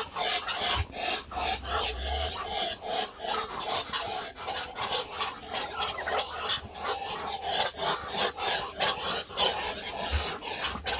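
Pet male poultry birds chattering in a continuous run of short, raspy calls.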